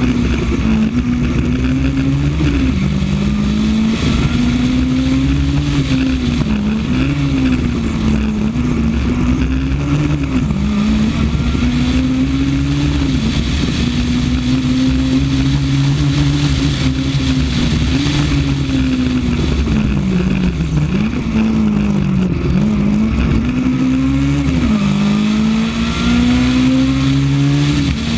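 Honda Civic rally car's four-cylinder engine driven hard on a special stage, its revs climbing and dropping again and again, about ten times, over a steady rumble of road noise.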